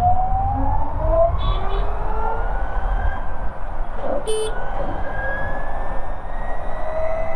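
Ather 450X electric scooter's motor whining, rising steadily in pitch as it speeds up, over a low rumble of wind and road. Two short high chirps cut through, one near the start and one about halfway.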